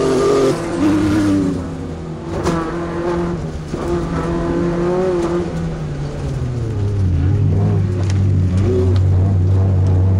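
Off-road race truck's engine running hard under racing throttle, its pitch rising and dropping several times as it revs and eases off. From about seven seconds in it settles into a steadier, lower drone.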